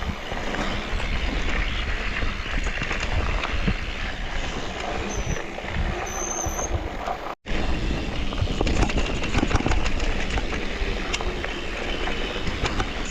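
Mountain bike ridden over a rough forest trail: steady wind rush on the microphone, tyre rumble and rattling of the bike over the ground, with two short high squeaks a little before halfway. The sound cuts out for an instant a little past halfway.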